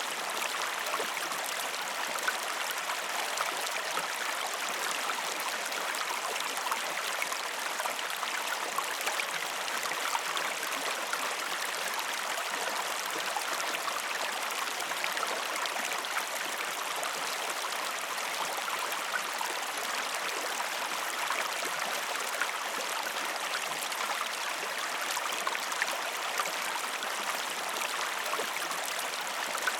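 Steady, unbroken rush of a flowing stream, an even splashing hiss of water.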